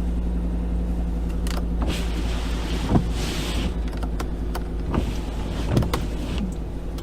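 Ford F-150's 5.0 V8 idling steadily, heard from inside the cab, with windshield wipers being worked: several clicks, a short hiss about three seconds in, and brief squeaks of the blades on the glass.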